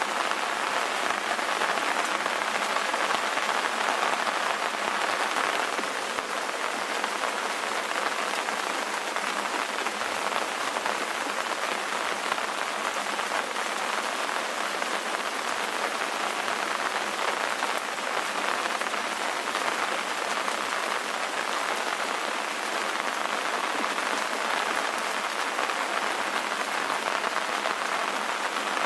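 Steady rain ambience: an even, unbroken hiss of rainfall with almost no low rumble.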